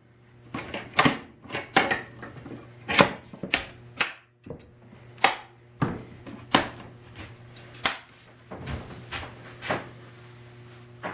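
Irregular sharp clicks and knocks, about a dozen, of small hardware being handled and fitted on a wooden tool chest, over a faint steady hum.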